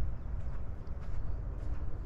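Footsteps of a walker on a scrub trail, faint regular steps, under a steady low rumble of wind on the microphone.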